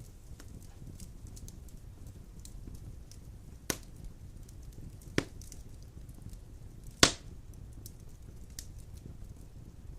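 Large wood logs burning in a stone fireplace: a steady low rumble of flame with small crackles, and three sharp pops, the loudest about seven seconds in.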